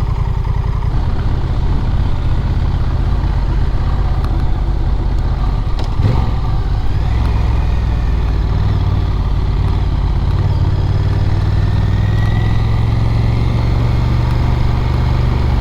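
Honda Rebel 1100's parallel-twin engine running steadily under way, a low, even drone with fine rapid pulsing and a brief change about six seconds in.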